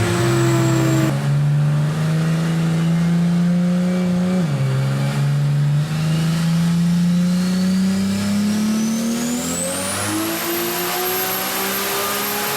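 Turbocharged Toyota 2JZ inline-six in a swapped car accelerating hard: the engine pitch climbs, drops sharply at a gear change about four and a half seconds in, then climbs again through a long pull. A high whine rises alongside it in the second half.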